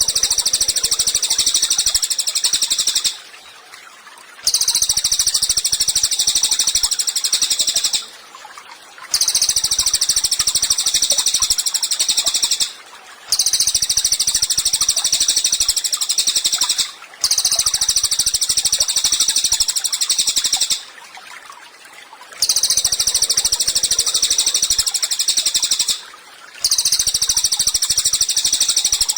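Cililin songbird singing loud, high, very rapid chattering trills in phrases of about three to four seconds, each followed by a short pause and repeated over and over at an even pace, as on a training (masteran) recording for songbirds.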